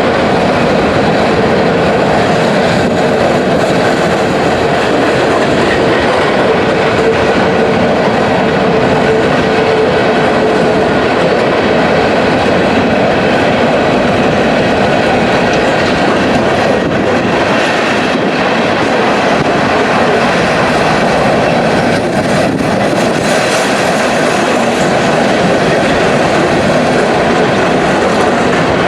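A train rolling past close by: a steady, loud clatter of wheels on rails. A faint steady whine is heard for roughly the first ten seconds.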